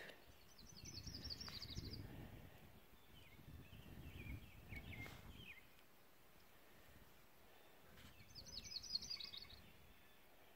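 A small songbird singing: two quick high trilled phrases about eight seconds apart, with softer chirps between them. A low rumble of wind on the microphone comes and goes under the song.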